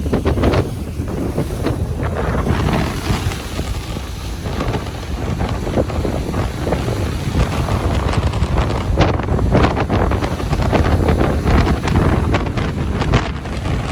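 Ocean waves washing onto a beach in a steady, continuous wash, with wind buffeting the microphone as a low rumble.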